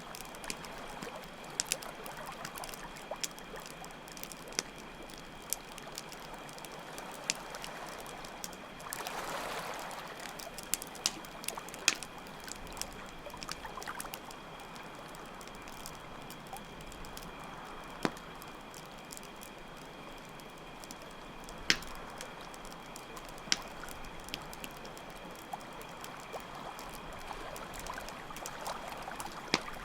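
Campfire crackling with scattered sharp pops, over a steady chorus of crickets and water washing in slow swells every several seconds.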